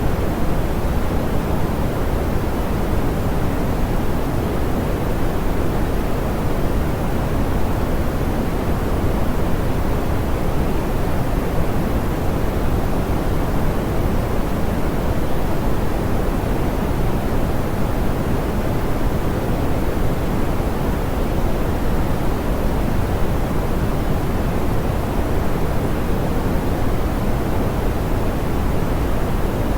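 Steady, soft pink noise: an even hiss weighted toward the low end, with its top end smoothed off and no change throughout.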